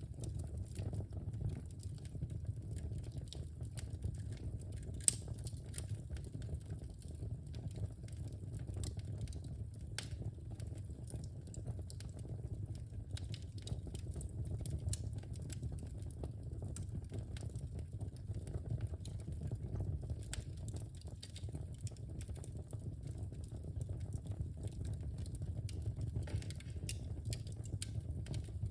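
Wood fire crackling in a fireplace: a steady low rumble from the burning logs, with scattered small pops and one sharper pop about five seconds in.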